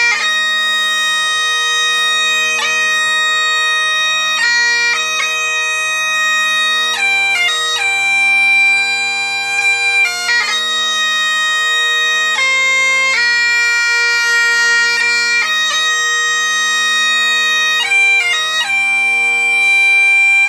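Bagpipes playing a tune: steady drones under a chanter melody that is broken by quick grace notes between the held notes.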